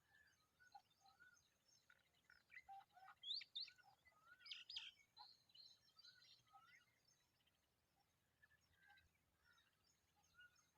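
Faint, repeated high chirps of a hungry familiar chat chick begging for food. A flurry of quick rising notes comes from about two to five seconds in.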